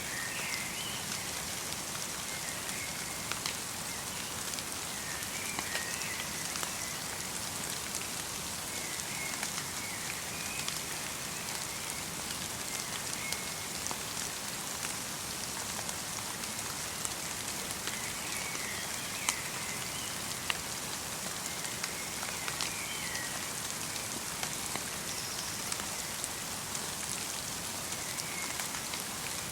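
Light rain mixed with snow falling on a winter forest: a steady patter, with single drops ticking sharply here and there. Short bird calls come every few seconds.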